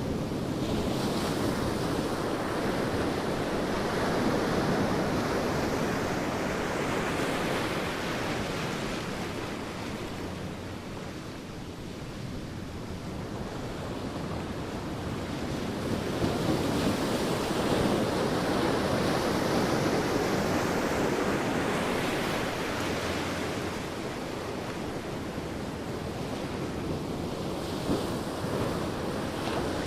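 Sea waves breaking and washing on a beach, a continuous surf noise that swells and ebbs every several seconds, with some wind on the microphone.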